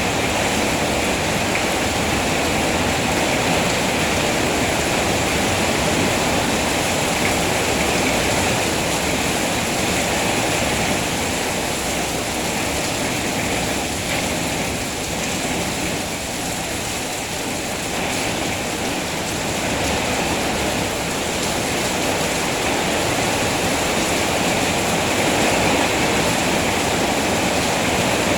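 Steady heavy rainfall, a dense even hiss of falling water, easing slightly about halfway through and then building back.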